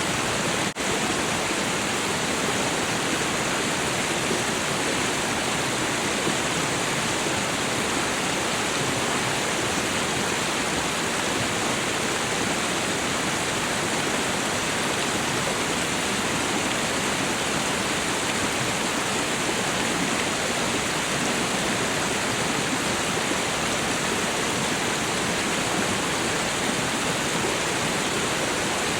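Waterfall: a steady, even rush of falling water, with one momentary dropout just under a second in.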